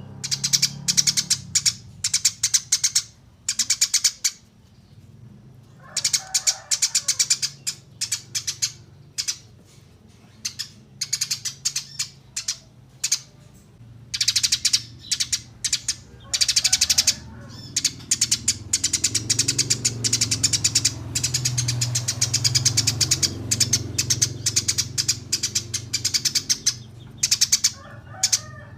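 Small songbird singing long bursts of rapid, high-pitched chirps and trills, broken by short pauses, over a faint low hum.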